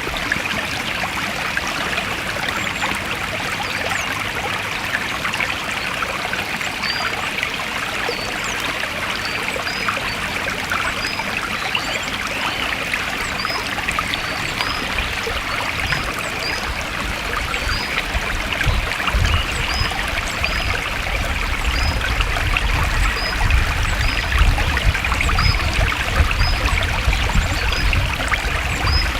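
Stream water flowing steadily. Short high chirps repeat about once a second from about a quarter of the way in, and a low rumble joins in about halfway through.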